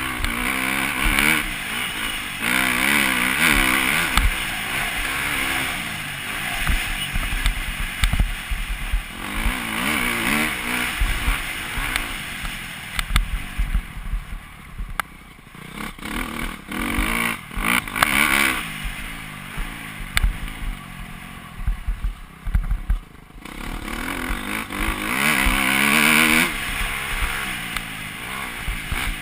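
Motocross motorcycle engine revving up and dropping back over and over, as when riding a dirt track, easing off for several seconds in the middle before picking up again.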